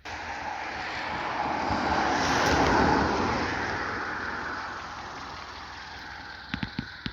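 A car passing by: its engine and tyre noise swells to a peak about three seconds in, then fades slowly. A few sharp clicks come near the end.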